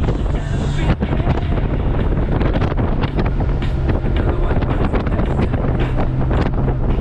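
Heavy wind buffeting the microphone on a moving Honda Gold Wing motorcycle, with a steady low hum underneath.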